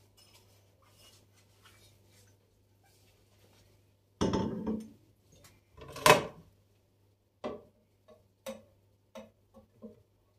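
Kitchen containers being handled and set down: a scrape or shuffle, then a sharp clatter, followed by about six light knocks as items are placed one after another.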